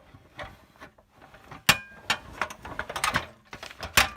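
Clicks and knocks of a toy Tonka dump truck being handled: two sharp knocks, one about a second and a half in and one near the end, with a run of smaller rattling clicks between.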